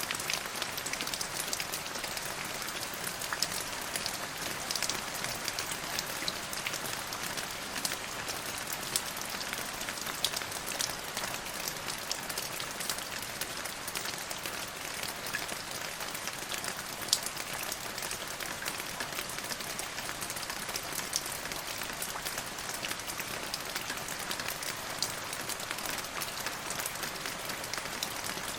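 Steady rain falling, an even hiss with many sharp individual drop ticks scattered through it.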